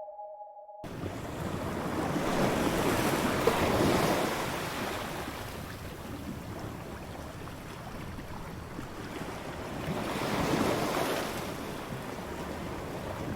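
Ocean surf washing onto a beach: a steady rush of water with two waves swelling and falling away about six seconds apart. It starts under a second in, just as a two-tone electronic jingle cuts off.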